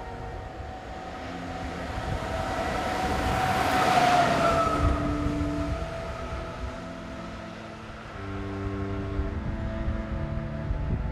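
Electric locomotive passing: its rumble and hiss swell to a peak about four seconds in, with a whine that drops in pitch as it goes by, then fade. Soft background music with held notes plays underneath.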